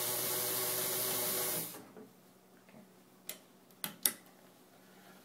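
Pfaff 130 sewing machine running steadily, with a motor hum and hiss, as it stitches through four layers of denim, then stopping abruptly about a second and a half in. A few seconds later come three sharp clicks.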